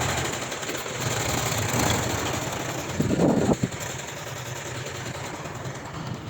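Diesel engine of heavy earthmoving machinery running at a steady low speed, with a brief louder clatter about three seconds in.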